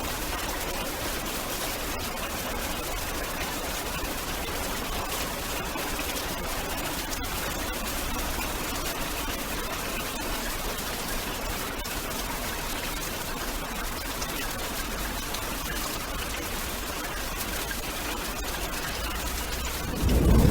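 Storm recording: a steady hiss of heavy rain with fine crackle. A deeper rumble sets in just before the end.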